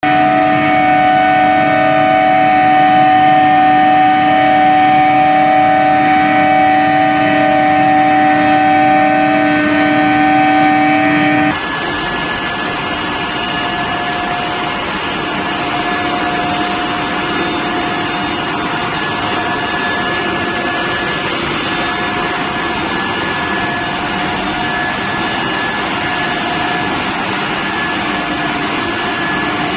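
Induction heat treatment line for square steel bar running: a steady machine hum with several held tones over a bed of mechanical noise. About eleven and a half seconds in it cuts abruptly to a somewhat quieter stretch with a thinner, higher whine.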